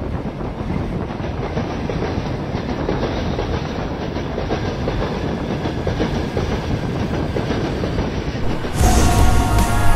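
Train running on the rails: a steady rumble with a rapid clatter. Music comes in near the end.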